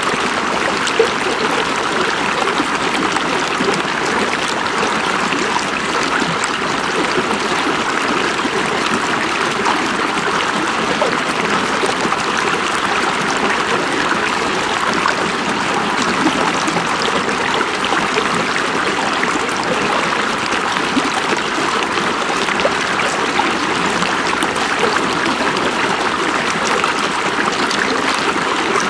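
A river or stream running over rocks, a steady rushing and splashing of water without pause.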